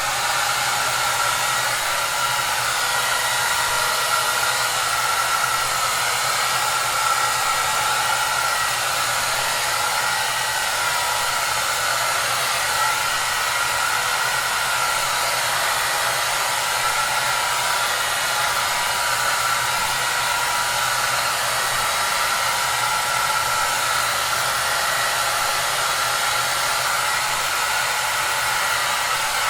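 Hair dryer running steadily: an even blowing hiss, with a faint whine from its motor and a low hum underneath.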